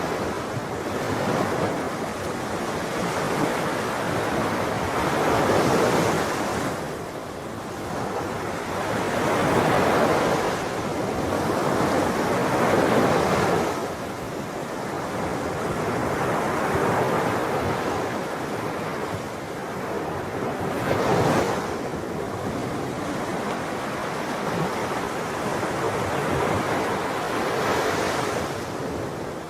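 Sea waves breaking and washing on the shore in a continuous surf, swelling with each wave every few seconds.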